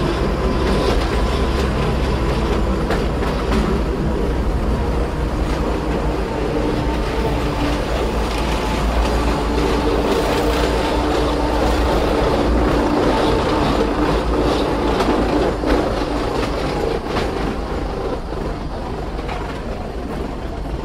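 Inside a Gornergrat Bahn rack-railway car climbing uphill: the steady running rumble of the train, with a continuous hum and light clicking from the wheels and track. It grows a little quieter over the last few seconds.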